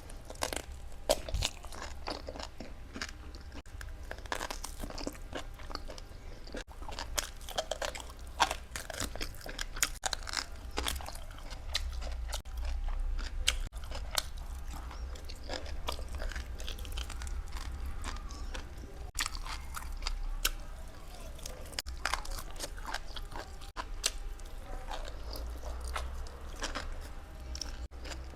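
Close-miked eating of meat in a mukbang: continual crunching, biting and wet chewing, with many sharp crackles, over a steady low hum.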